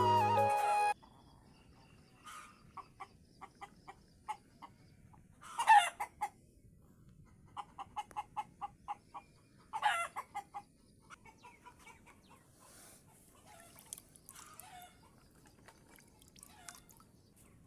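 Chickens clucking in short runs of quick clucks, with two louder squawking calls partway through and fainter scattered clucks between. Flute music cuts off about a second in.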